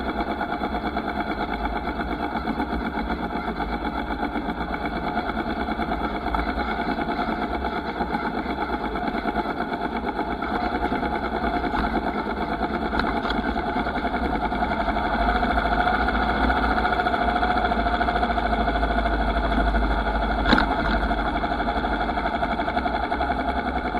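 Motorcycle engine running steadily, with a low rumble underneath. It gets a little louder in the second half, and there is one sharp knock late on.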